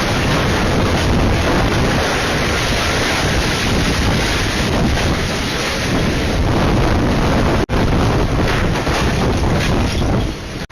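Strong storm wind blasting across the microphone: a loud, steady rush of noise, broken by a short dropout about eight seconds in.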